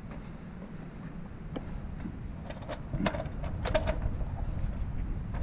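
Scrap metal being handled, giving scattered knocks and clinks, one with a brief metallic ring, over a steady low rumble.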